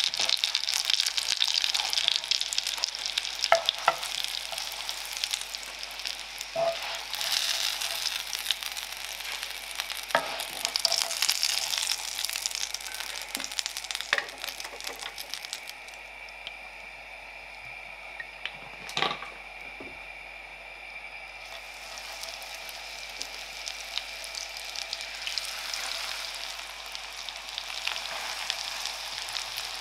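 Breaded savoy cabbage slices shallow-frying in hot oil in a pan: a steady sizzle and crackle, with a few light knocks of a utensil against the pan. The sizzle dies down for a few seconds about halfway through while the pan holds only oil, then builds again as fresh breaded slices go into the hot oil.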